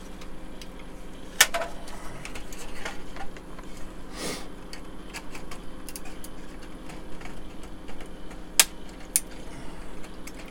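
Scattered sharp clicks and snaps of old glued plastic model-kit parts being prised apart, the loudest snaps about a second and a half in and near the end, with a brief scraping rustle around four seconds in. A steady faint hum lies underneath.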